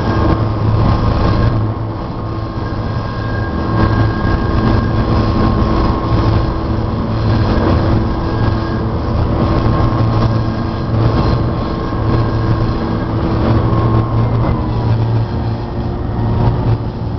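A diesel train passing over a railroad crossing: a steady, loud rumble of the locomotive with wheel and rail noise, and a few faint steady tones that sag slightly in pitch near the end.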